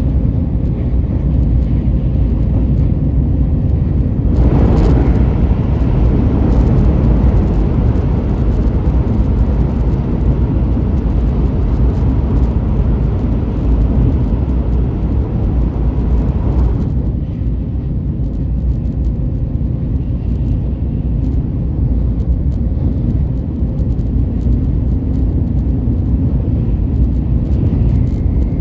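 Steady low rumble of a moving train. A louder rushing stretch begins about four seconds in and drops back a little past halfway.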